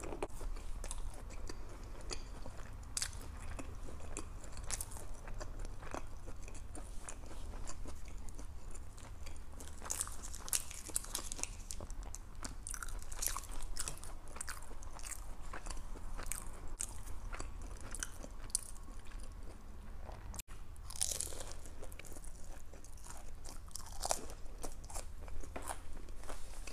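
Close-miked crunching and chewing of a crispy fried egg roll, irregular crackly bites throughout, over a steady low hum.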